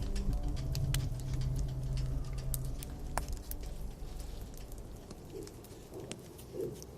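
Campfire crackling, with sharp irregular snaps and pops. Low background music fades out about halfway through.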